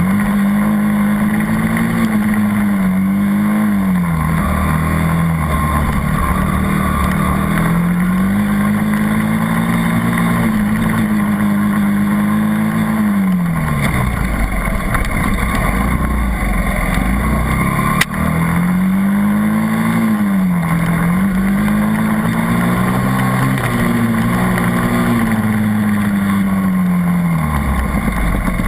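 80cc dirt bike engine revving up and easing off again and again as the bike rides around the track, its pitch climbing and falling in repeated cycles and dropping low twice. A single sharp knock sounds partway through.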